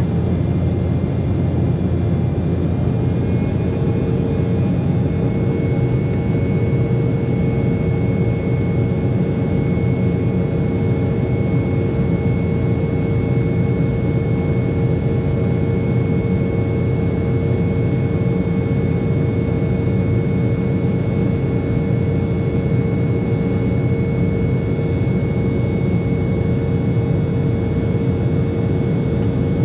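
Embraer 190 jet airliner's engines heard from inside the cabin: a steady, loud rumble with a steady high whine, and a lower whine that comes in a few seconds in and then holds.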